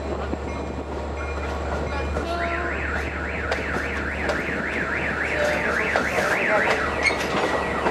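Long Island Rail Road Kawasaki bilevel passenger coaches rolling past, their wheels clicking over the rail joints under a steady low rumble. From about two seconds in, an electronic alarm warbles, sweeping up and down about three times a second, and stops near the end.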